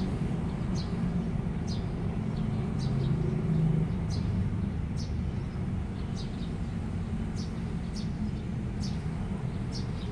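A small bird chirping over and over, short high chirps coming about once a second, over a steady low rumble.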